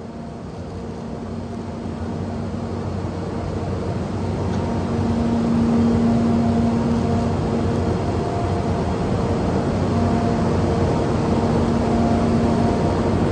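An EF64 DC electric locomotive running and drawing closer, its noise growing steadily louder, with a low hum that comes and goes over the rumble.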